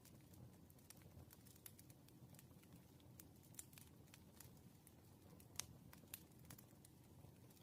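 Wood fire crackling, faint: irregular sharp pops and snaps over a low steady rumble, with the loudest pop a little past halfway.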